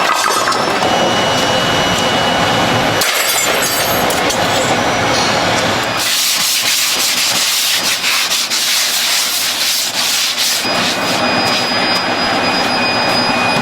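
Workshop noise of abrasive work, rubbing and sanding, in several short stretches that change abruptly, with a brighter hiss from about six seconds in until about ten and a half.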